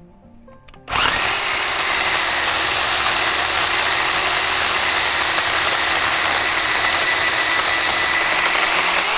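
A DekoPro 8-amp corded electric pole chainsaw's motor starts suddenly about a second in and runs steadily at full speed with an even whine. Near the end its pitch drops as the trigger is released and the motor winds down.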